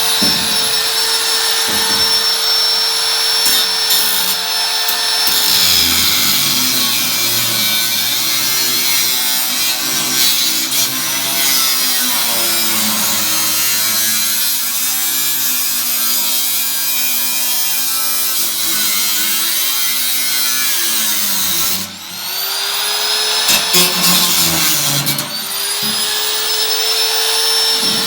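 Handheld electric power tool working on a steel can: a high motor whine that drops and wavers in pitch as the tool bites into the metal, then about 22 s in it stops briefly and spins back up, winding up again a few seconds later.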